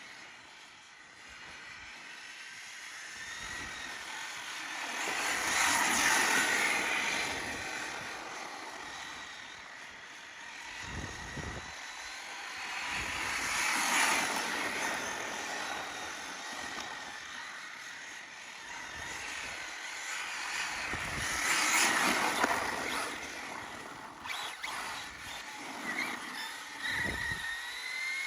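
RC drift car's motor whining and tyres hissing as it laps past three times, growing loud and then fading each time, about eight seconds apart.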